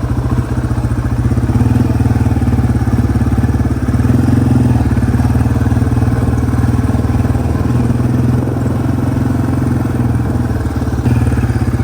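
Yamaha TW200's single-cylinder four-stroke engine running steadily with a fast, even pulse, its level shifting slightly a few times.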